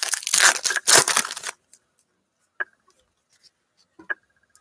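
Foil trading card pack wrapper crinkling and tearing for about a second and a half as it is handled, then a few faint clicks.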